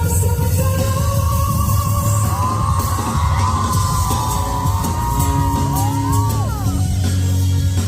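Live rock band playing loudly, with a heavy bass line and drums under one long held high melody line that bends and slides in pitch midway through.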